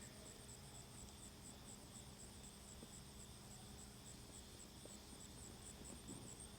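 Faint cricket chirping: a thin, high-pitched pulse repeating steadily about three times a second.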